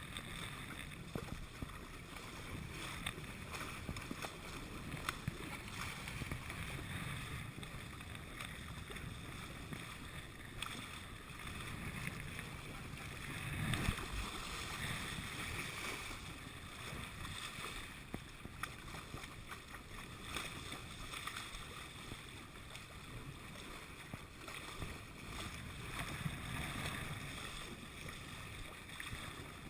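Water washing along a sailboat's hull as it moves through the water, with wind on the microphone. The sound swells and eases, loudest around the middle.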